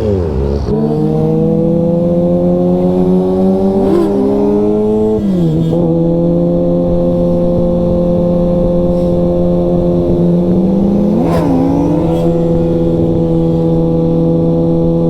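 Sportbike engine running at steady revs while riding, with brief quick changes in revs about four, five and eleven seconds in.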